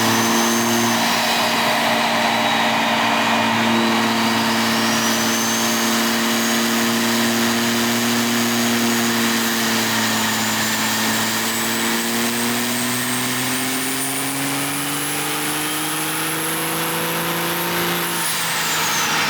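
Cummins turbo-diesel in a Ram 2500 pulling under load on a chassis dyno. The engine note holds and then climbs steadily, with a high turbo whistle rising over it. Near the end the throttle is let off and the whistle falls away.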